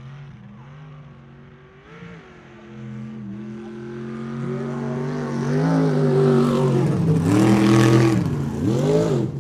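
A super-class mud truck's engine running hard and getting steadily louder as the truck accelerates. It is loudest about seven to eight seconds in, with a noisy rush over the engine. Near the end the engine pitch dips and climbs again as it revs.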